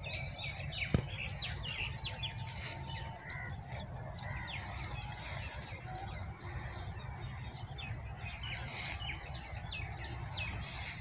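Small birds chirping, many short quick calls throughout, over a steady low rumble, with a couple of brief rustles as cut green fodder grass is gathered by hand.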